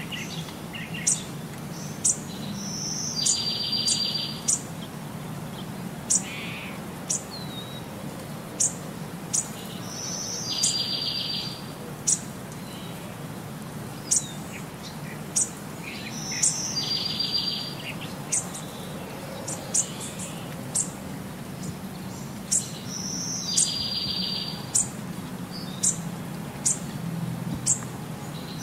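High, sharp bird chirps about once a second, with a short buzzy trill coming back every six or seven seconds, over a steady low hum. The same pattern repeats unchanged, like a looped nature-sound track.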